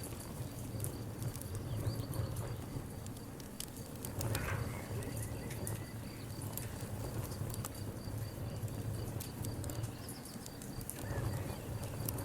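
Wood fire crackling: irregular sharp pops and snaps over a steady low rumble of the burning fire. A faint high, evenly pulsing tone runs underneath.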